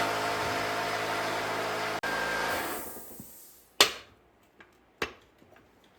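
Shop air compressor running with a steady motor hum, then winding down and stopping about three seconds in. A sharp click follows near four seconds, and a fainter one about a second later.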